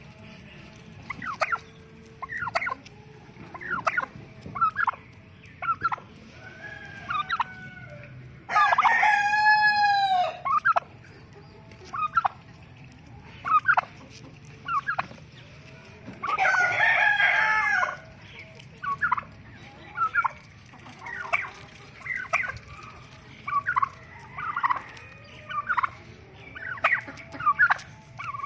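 Farmyard poultry calling: a steady run of short calls, broken by two long, loud calls about 9 and 17 seconds in.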